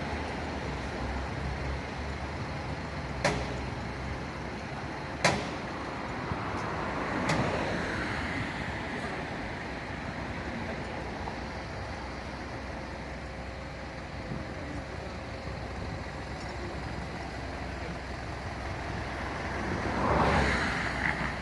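Steady vehicle and street noise with three sharp knocks about two seconds apart a few seconds in, then a swell of noise that rises and falls near the end.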